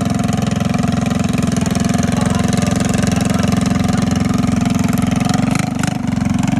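An engine idling steadily, close and loud, with a brief clatter about five and a half seconds in.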